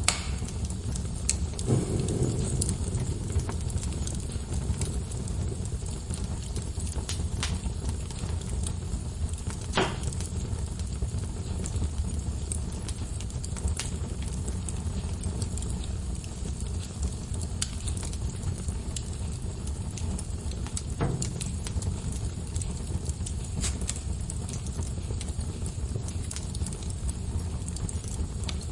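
Log fire crackling in a fireplace: a steady low rumble of burning with scattered sharp pops and snaps, the louder pops about 2, 10 and 21 seconds in.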